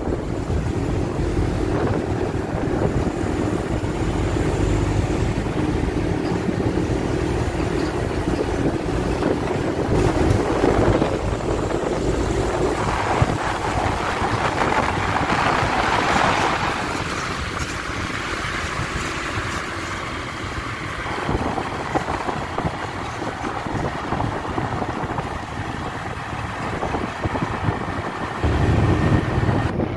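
A motor vehicle's engine running steadily under wind buffeting the microphone, with surf in the background; the engine hum fades about a third of the way through, leaving mostly wind and waves.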